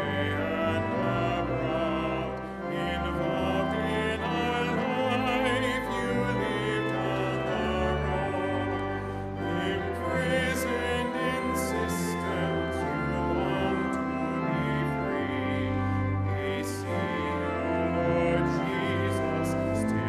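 Church music during communion: a singer's voice with vibrato over sustained instrumental accompaniment and a bass line.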